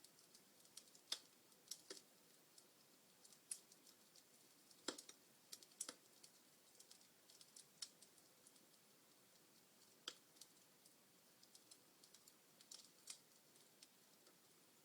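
Burning wood logs in a fireplace crackling: faint, irregular sharp pops and snaps over a soft hiss, the loudest snaps about a second in, about five seconds in and about ten seconds in.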